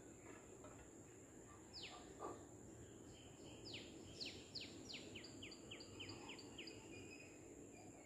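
Faint bird calls: one falling whistle about two seconds in, then a run of quick falling notes, about three a second, for a few seconds, over a steady high-pitched insect drone.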